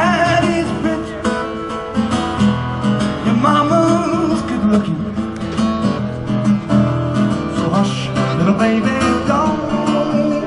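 Live music: an acoustic guitar strummed, with a singer's voice.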